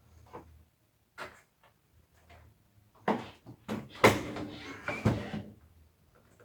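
Handling clatter from a window air conditioner being worked on by hand: a string of separate knocks and clunks, the loudest about four seconds in, followed by a short scrape.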